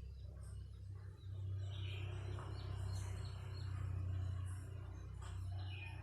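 A steady low hum with a few faint, short, high bird chirps over it, about two seconds in and again near the end.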